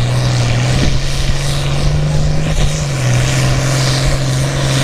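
International Harvester 966 pulling tractor's six-cylinder engine running hard under load down the track. It gives a loud, steady drone whose pitch rises slightly about two seconds in and drops back a second later.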